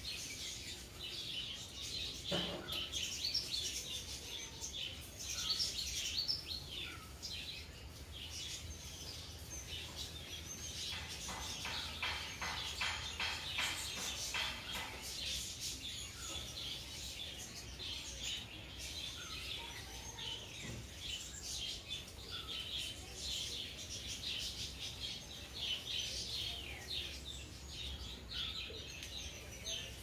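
Several small birds chirping and twittering in quick, overlapping calls, with a rapid trill in the middle.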